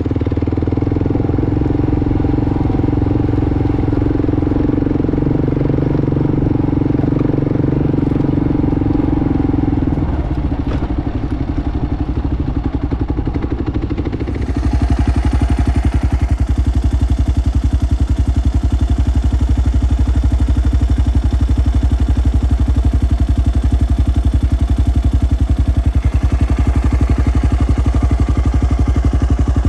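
Motorcycle engine running under way. About fourteen seconds in, the sound changes and grows louder, with a strong, even low engine pulse.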